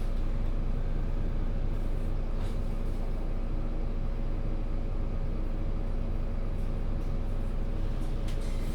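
2022 MAN Lion's City 19C NG360 EfficientHybrid articulated bus with Voith transmission, heard on board: its diesel engine and drivetrain run with a steady, even drone. A few faint light clicks or rattles sound over it.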